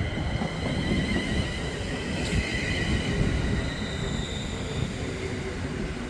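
A London Northwestern Railway Class 350 Desiro electric multiple unit, two units coupled, arriving at the platform. Its wheels rumble steadily over the rails, with a thin, steady high whine over the top.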